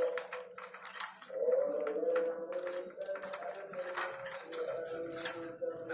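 A dove cooing in low, drawn-out, wavering phrases, with short sharp chirps and clicks from a lovebird chattering over it.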